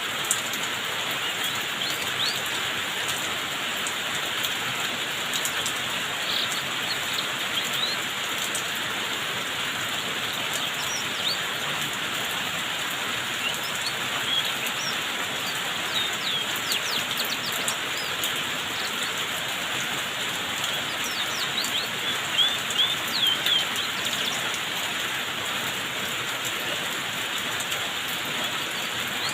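Steady hiss of rain-like falling water, with a canary's short high chirps coming now and then, most often in two bunches in the second half.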